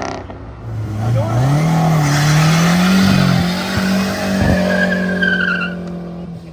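A car's engine revs up over about two seconds and holds at high revs while the tyres spin and squeal in a burnout. A sharper squeal comes near the end, and then the sound eases off.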